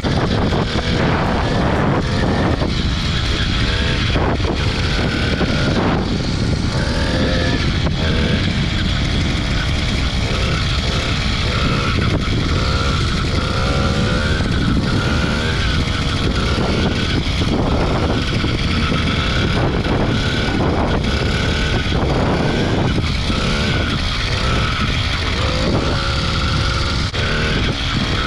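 Small 80cc two-stroke motorized-bicycle engine running under way, its pitch rising and falling as the throttle is worked. Heavy wind buffets the microphone.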